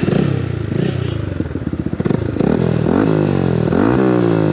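Yamaha R15 V3's 155 cc single-cylinder engine breathing through an aftermarket exhaust. It runs low with distinct firing pulses, then is revved twice near the end, the pitch climbing and dropping back each time.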